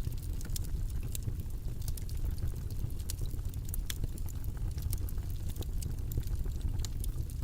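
Steady low, rumbling background noise from a white noise track, with scattered light clicks over it.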